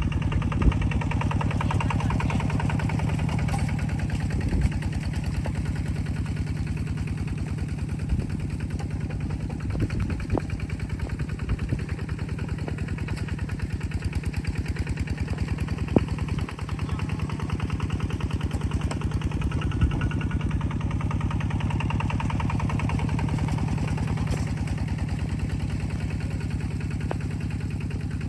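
A small engine running steadily with a fast, even chug, and a few sharp clicks or knocks over it.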